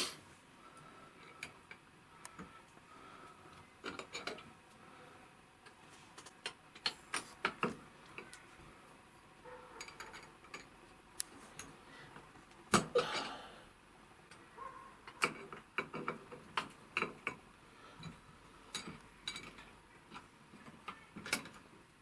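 Irregular metallic clicks, clinks and knocks of hand tools working a seized-tight nut on the rear wheel of a Meyra Optimus 2 power wheelchair, with one louder knock about thirteen seconds in.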